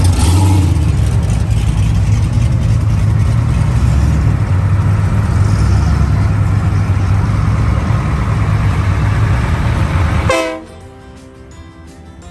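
Loud, steady low rumble of car engines and exhaust. It cuts off abruptly about ten seconds in, and quieter background music takes over.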